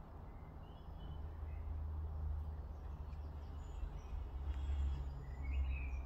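Several faint, short bird chirps in a garden, the clearest near the end, over a steady low rumble that grows a little louder.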